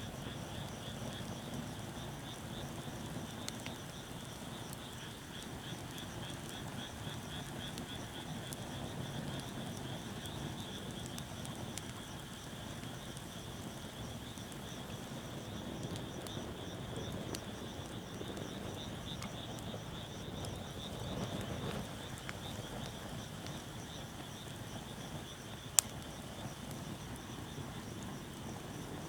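Wood fire burning with scattered small crackles and one sharp pop near the end, over a steady high-pitched, rapidly pulsing chorus of calling animals.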